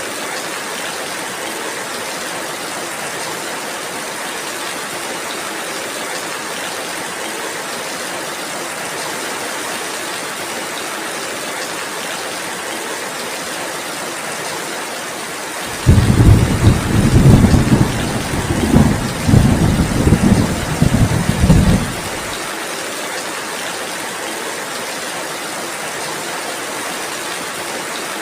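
Steady rain falling, with a loud, low rumble of thunder a little past halfway that starts suddenly, rolls in several surges for about six seconds, and then stops.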